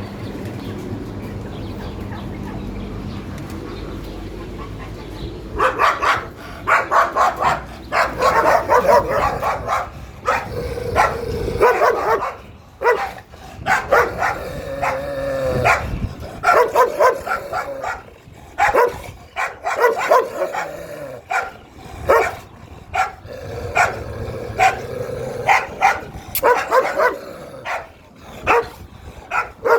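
Dogs barking repeatedly in quick, loud volleys, starting about five seconds in after a steady low rumble.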